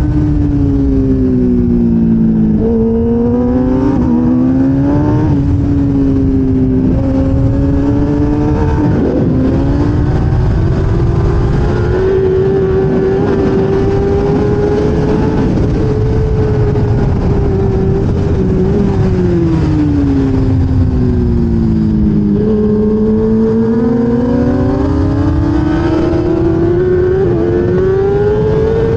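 A 1000cc racing motorcycle's engine at high revs, heard onboard over a constant rushing noise. The pitch dips early, climbs in steps through upshifts, then holds high. About two-thirds of the way in it falls away as the bike slows for a corner, and it climbs again near the end.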